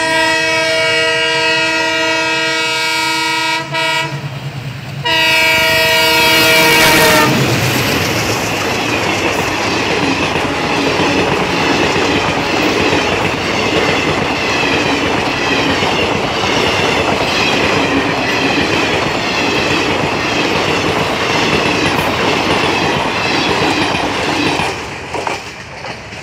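Train horn sounding a long blast, then a second blast after a short break. Then passenger coaches roll past close by with steady rhythmic wheel clatter over the rail joints, which drops away near the end.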